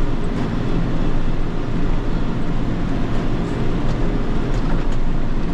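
John Deere 7210 tractor's diesel engine running steadily under load while pulling a hay baler, heard inside the cab.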